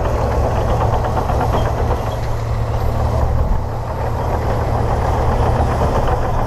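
Komatsu D58P bulldozer's diesel engine running steadily, with a heavy low hum.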